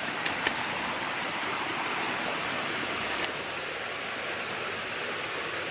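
A small rainforest river flowing over rocks: a steady rush of water, with a faint high whine that comes and goes.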